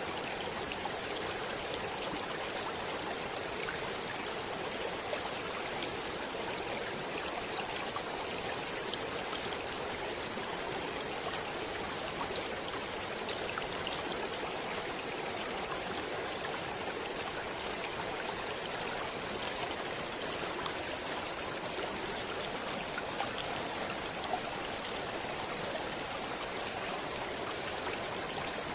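Shallow stream flowing steadily, an even rush of water with small splashes and trickles through it.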